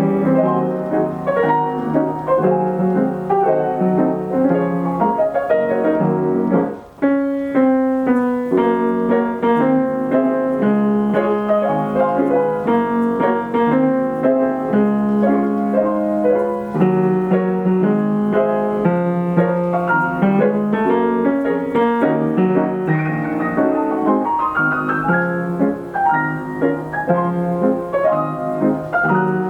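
Steinway Model S grand piano played by its Ampico B reproducing mechanism from a paper roll: a popular-song arrangement with busy chords and melody. There is a brief break in the playing about seven seconds in.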